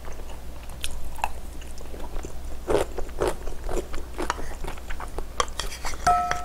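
Close-miked crunching and chewing of kimchi, in many short crisp bites. About six seconds in, a metal bowl rings briefly as chopsticks knock against it.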